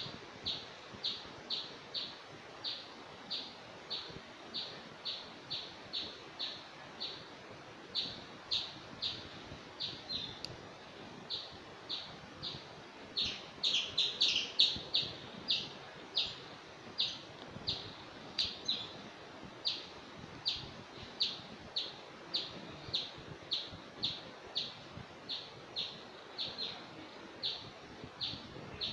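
A bird chirping a short, high note over and over, about two chirps a second, with a quicker, denser run of chirps around the middle.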